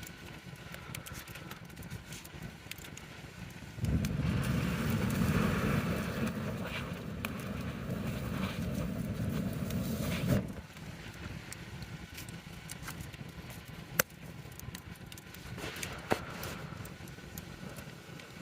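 Wood campfire crackling, with scattered sharp pops and two louder snaps in the second half. A loud, low rushing noise starts suddenly about four seconds in and cuts off about six seconds later.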